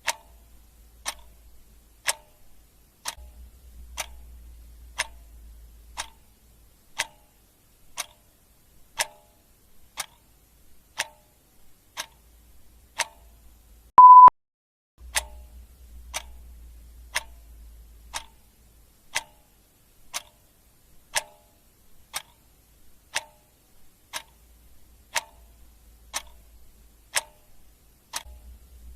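Clock ticking once a second, the ticks alternating louder and softer in a tick-tock pattern. About halfway through, a short, loud beep at one steady pitch.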